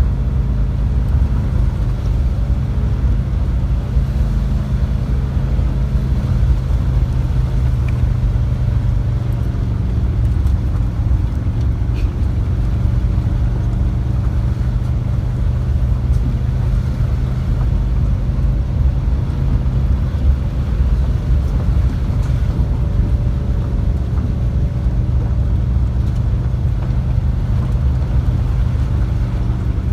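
Volkswagen Type 2 bus driving, its engine and road noise a steady low drone; the engine is new and being broken in.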